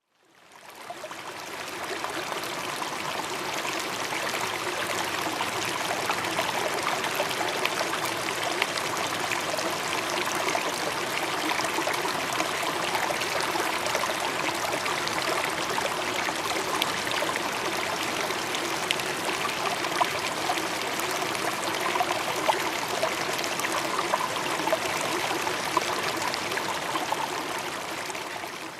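Steady running water, like a stream, with small splashy ticks through it. It fades in over the first couple of seconds and fades out at the end.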